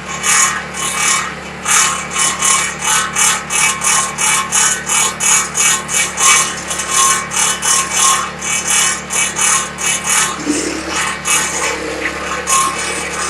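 Petrol-engined garden branch chipper running, its blades chopping branches in a rapid, regular series of crackling strokes, about three to four a second, which ease off about ten seconds in.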